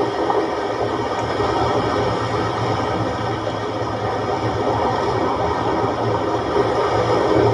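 Moderately rough sea with waves of one to two metres washing in: a steady rushing noise.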